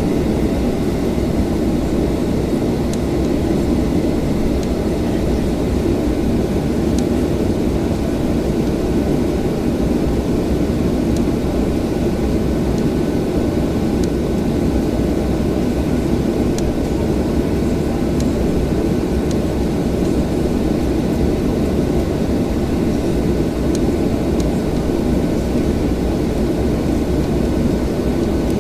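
Steady low rumble and hum inside the passenger cabin of a Boeing 737-800 on the ground, unchanging throughout.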